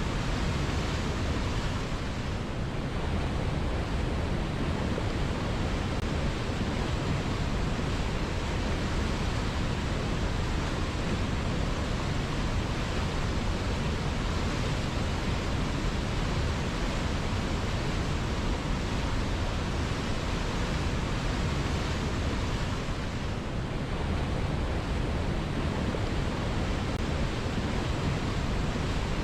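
River water flowing, a steady rushing wash without pauses.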